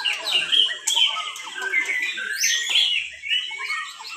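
Several caged white-rumped shamas (murai batu) singing at once: a dense tangle of overlapping loud whistles, trills and chattering phrases with no pauses.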